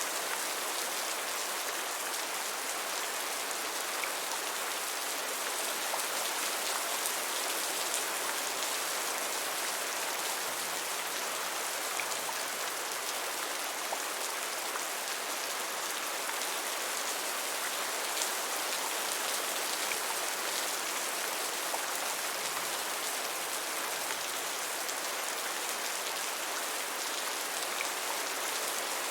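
Steady rain falling, an even hiss with the occasional distinct drop tick.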